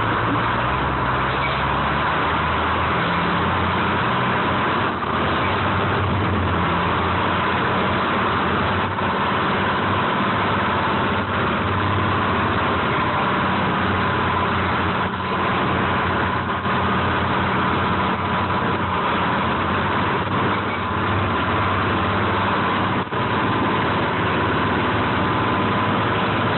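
The engine of a 1970 American 7510 crane running steadily.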